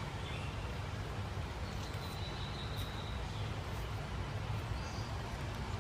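Steady outdoor background noise with a low rumble, and a faint thin high whistle about two seconds in that lasts about a second.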